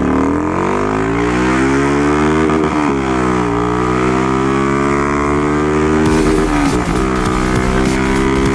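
Single-cylinder Honda Fan 150 motorcycle engine, running on a short, open exhaust, accelerating as it pulls away. The pitch climbs, drops at an upshift about three seconds in, climbs again, drops at a second upshift near seven seconds, then holds steady.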